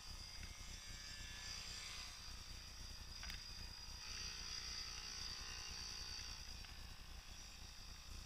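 Faint buzz of a Yamaha PW50's small two-stroke single-cylinder engine running at a distance, steady over a low rumble.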